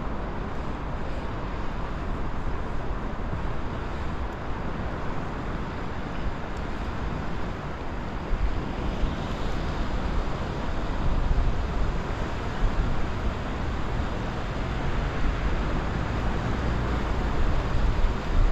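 Wind gusting over the microphone on a seaside breakwater, over a steady wash of sea noise, with stronger gusts near the end.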